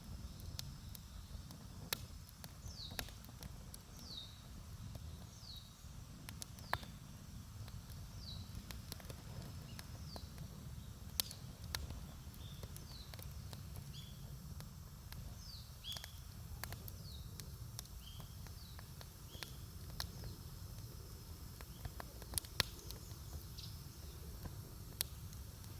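Campfire wood crackling, with sharp irregular pops over a low steady rumble. A bird calls again and again through it, short high notes that fall in pitch, about one a second.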